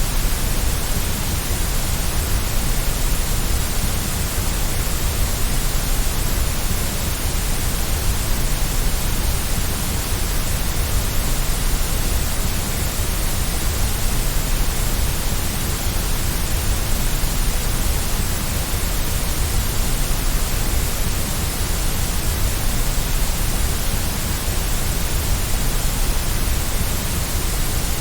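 Steady white noise for infant sleep: an even, unbroken hiss with a deep rumble underneath, unchanging throughout.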